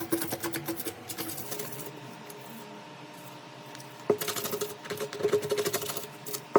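Rapid light clicks and taps in two spells, one at the start and another from about four seconds in, with a quieter stretch between.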